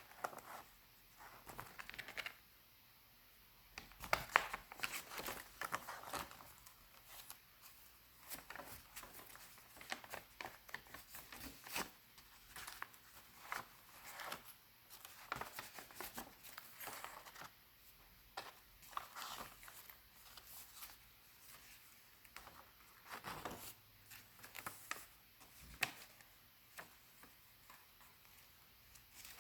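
Pages of a small handmade ring-bound paper journal being turned one after another, with paper rustling and crinkling and irregular soft clicks throughout.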